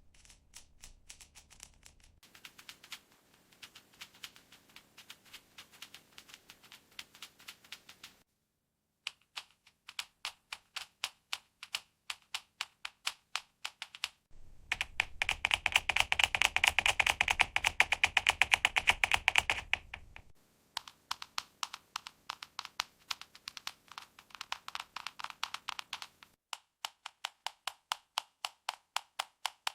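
Fingernails tapping on a plastic makeup palette in quick, even runs of about three to four taps a second. The runs are split by short pauses, and the run in the middle is the loudest.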